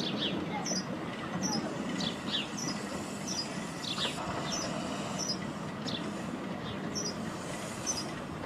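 A small bird singing: short, high chirps repeated about twice a second, over a steady outdoor background hiss.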